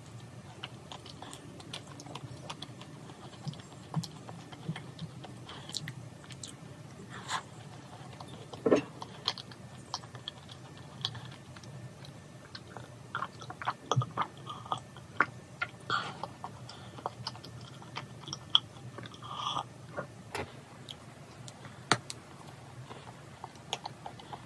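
A person chewing and biting into thick, cream-filled macarons close to the microphone, with many short, irregular mouth clicks.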